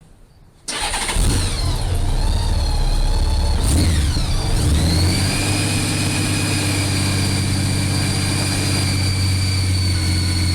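Motorcycle engine starting up suddenly about a second in, its pitch shifting for a few seconds before settling into a steady idle.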